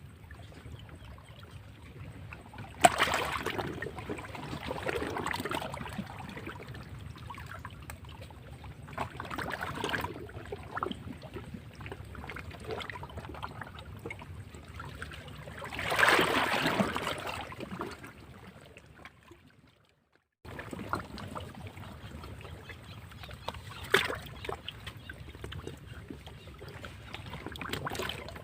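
Sea waves washing against rocks: a steady wash of water broken by several surges, one starting abruptly about three seconds in and the loudest a little past the middle. The sound cuts out completely for a moment about two-thirds of the way through, then resumes.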